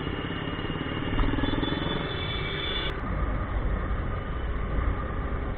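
Motorcycle engine running amid city traffic noise, its low rumble growing about a second in as the bike moves off, with a sharp click about three seconds in.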